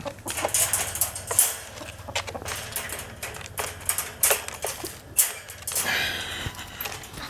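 Roosters being let out: an irregular run of clicks, taps and scuffs, with a longer rustle about six seconds in.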